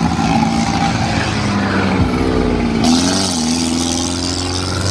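Tractor engine running loud and being revved, its pitch rising and falling in the middle. A steady hiss starts suddenly about three seconds in.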